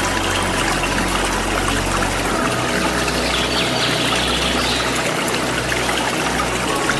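Waterfall water pouring and splashing in a steady rush, with faint bird chirps in the middle.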